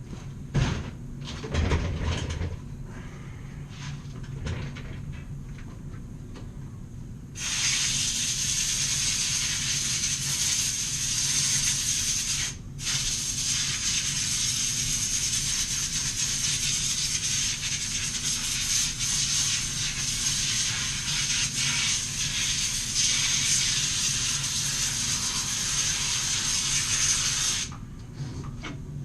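A compressed-air blow gun hisses in one long blast, with a short break a few seconds in, while it blows a chainsaw clean. A few clicks and knocks of handling come before the blast.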